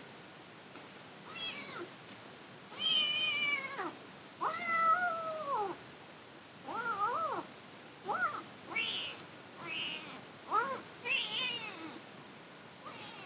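Kitten meowing over and over, about ten high-pitched calls, some long and drawn out, others short, many dropping in pitch at the end.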